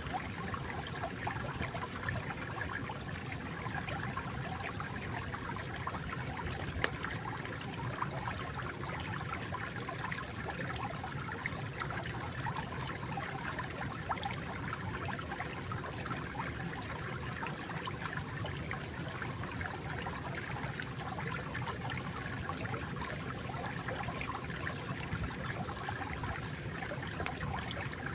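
Water flowing and trickling steadily in a small stream, with a fine babbling texture and one sharper splash about seven seconds in.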